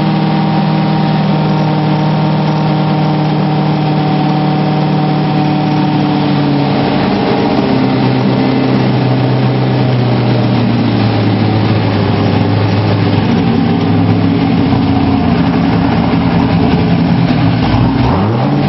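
Factory Five GTM's V8 running steadily, probably with the car up on stands being run through the gears. Its pitch steps down about a third of the way through and changes again near the end.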